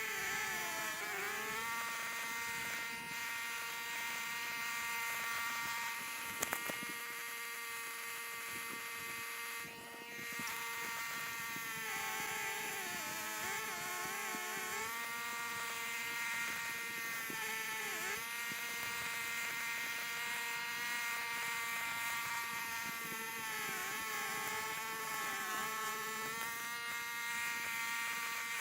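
A small engine running steadily with a buzzing hum. Its pitch sags briefly and recovers several times, as when it takes on load.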